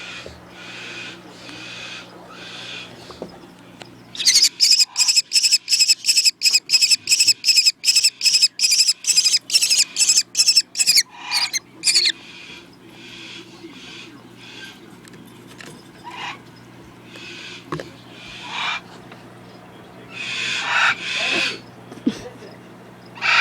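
Young kestrel calling: a fast run of loud, high, shrill calls, about three a second for some eight seconds, with softer single calls before and after.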